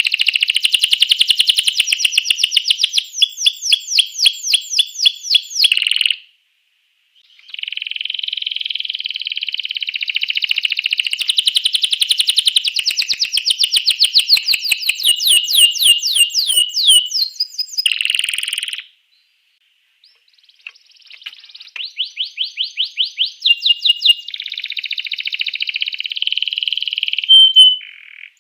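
Domestic canary singing long, fast trilled song phrases of rapidly repeated high notes. The song comes in three bursts with short pauses between them.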